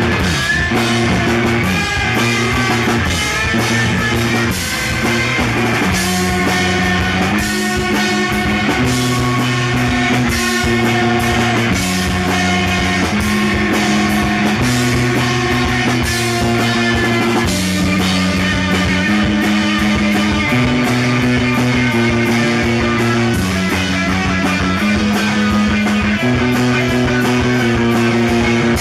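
Blues-rock band playing: a repeating electric guitar and bass riff that changes chord about every second and a half, over a steady drum-kit beat.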